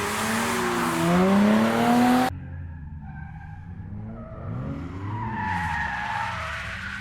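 Drift car sliding with its engine revving hard and tyres screeching loudly. About two seconds in the sound cuts abruptly to a quieter, more distant car whose engine revs rise and fall, with tyre squeal building near the end.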